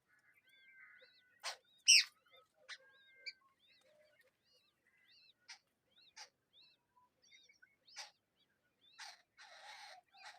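Bird calls: scattered short, high chirps and a few sharp, harsh notes, the loudest about two seconds in, with a raspy burst near the end, which the uploader takes for the mother bird calling in alarm over a chick fallen from the nest.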